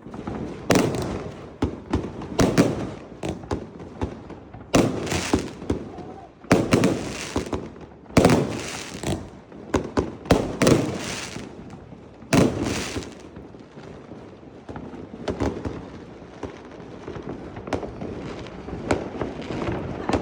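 Fireworks going off in a rapid series of loud bangs with crackling tails. They thin out to fainter, scattered pops in the last third.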